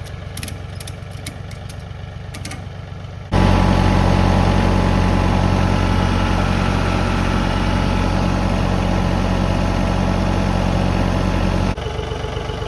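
An engine runs steadily, then is held at higher revs for about eight seconds, much louder, before dropping back to a lower steady run near the end. A few light metallic clicks come in the first few seconds.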